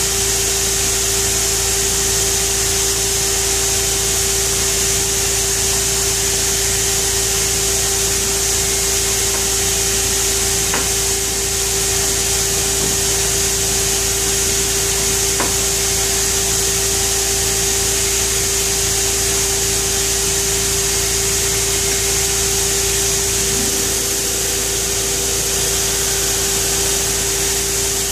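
Pheer 327 2x72 belt grinder running at about half speed, a steel knife blade held against the abrasive belt: a continuous high grinding hiss over a steady motor hum.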